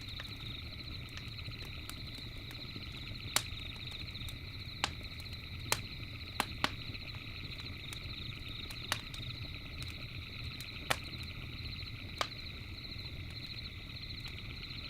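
Campfire crackling, with about eight sharp pops scattered a second or two apart. Beneath it runs a steady, high, finely pulsing night chorus and a low rumble.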